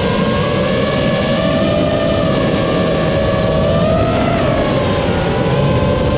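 7-inch FPV quadcopter's EMAX ECO II 2806 1500kv brushless motors and propellers whining steadily in flight, over a rushing noise. The pitch rises briefly about four seconds in, then dips.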